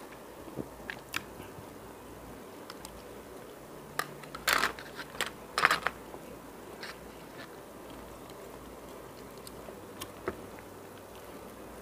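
A person eating close to the microphone: chewing and mouth sounds, louder crunchy bites about four to six seconds in, and scattered small clicks.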